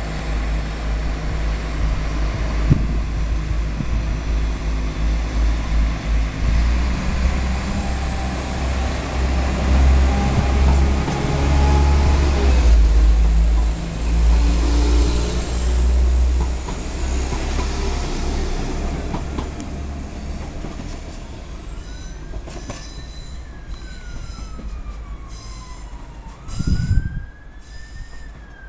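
A diesel multiple unit runs along the platform with a loud, low rumble and a thin high wheel squeal. It fades about three-quarters of the way through. Then a siren wails up and down in pitch, and there is a short thump near the end.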